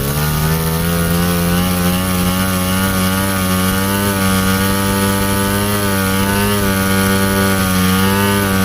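A motor vehicle engine running steadily at a held speed, its pitch wavering slightly.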